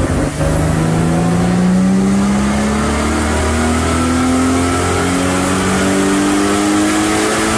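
Nissan Silvia S14's turbocharged RB25 straight-six, with a Garrett G30-770 turbo, revving up under load on a chassis dyno. Its pitch climbs steadily for about seven seconds, with a high whine rising along with it, then drops away as the run ends.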